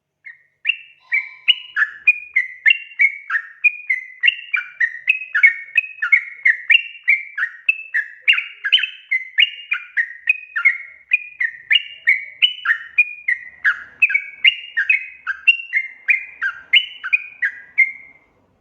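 Yellow-vented bulbul (trucukan) singing a long, unbroken run of short notes that jump up and down in pitch, about two to three a second. The song stops shortly before the end.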